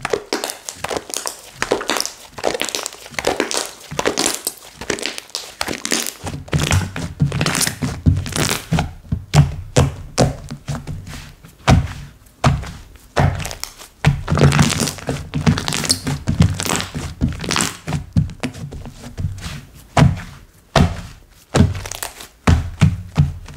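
Slime being kneaded, stretched and pressed by hand, giving a continuous run of sharp clicks and pops, with deeper thuds joining in from about six seconds in.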